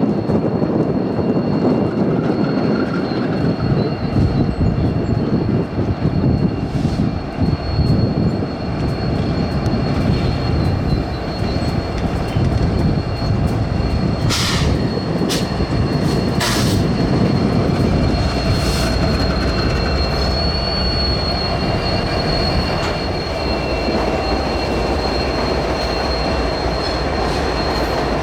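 Diesel-electric freight locomotive moving slowly through a yard, a steady low engine and wheel rumble with a thin, high wheel-flange squeal held over most of the time. A few sharp clacks about halfway through, as of wheels crossing rail joints or switch points.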